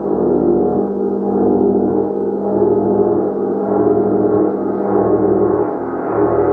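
Large gong played continuously, a dense, sustained shimmering wash of many overlapping tones with a slow swelling pulse in the low end.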